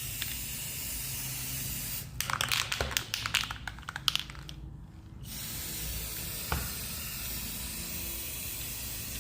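Aerosol spray can of primer hissing steadily as it is sprayed. About two seconds in there is a burst of sharp crackling clicks, then the hiss cuts out for about a second and starts again.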